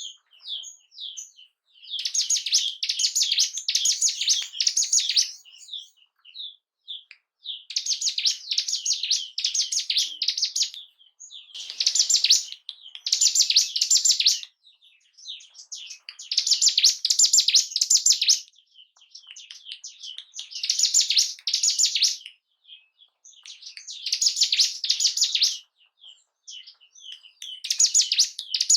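Ciblek gunung (bar-winged prinia) singing: fast, high chattering song phrases a second or two long, repeated about every three to four seconds with single chips between them.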